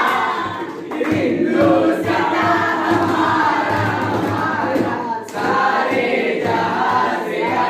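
A group of voices singing a song together, like a choir.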